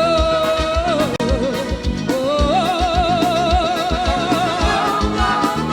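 Live forró band playing at a steady beat, with a melody of long held notes with vibrato over a regular kick drum.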